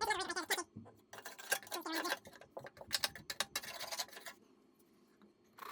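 Short scrapes and knocks of a tool working caked wet grass clippings off the underside of a welded steel mower deck, in uneven strokes that stop about four seconds in.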